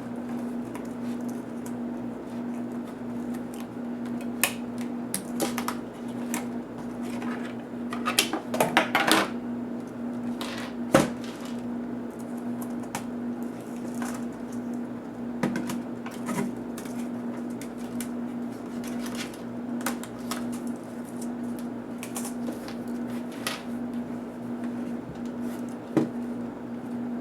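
Small plastic and metal clicks, taps and rattles of laptop parts and screws being handled during disassembly, a few at a time with a short flurry and one sharper knock in the middle, over a steady low hum.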